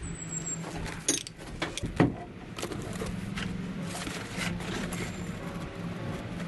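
A few sharp clinks and knocks of hand tools against the metal of an old garbage disposal, the loudest about two seconds in, over a low steady hum.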